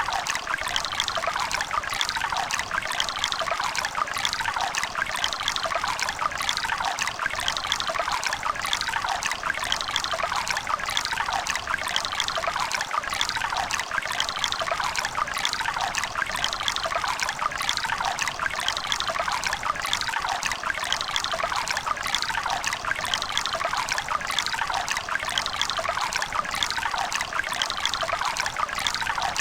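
River water running and splashing over stones, a steady babbling trickle with many small splashes and little low rumble.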